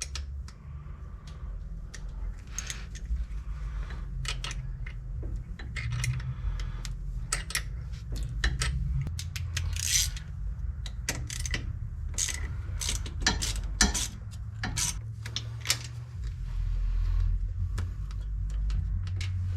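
Irregular metal clicks and clinks as the parts inside an opened rear differential are handled and turned, over a steady low rumble. The differential's gears are heavily worn and its cross pin bolt is broken, leaving a part loose inside.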